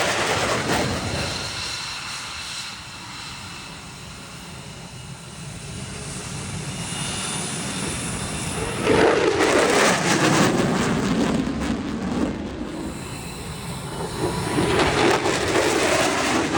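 Jet noise from a single-engine F-16 fighter flying display passes: the engine roar fades away, builds again to a loud rush about nine seconds in, dips, then swells once more near the end.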